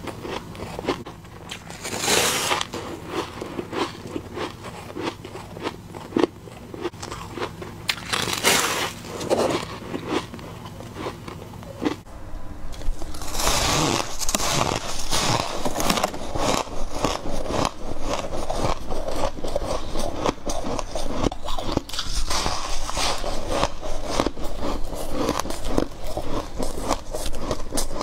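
A person biting into freezer frost built up by a humidifier, heard close up: crisp crunching bites about two seconds and eight seconds in, then dense, continuous crunching from about halfway through.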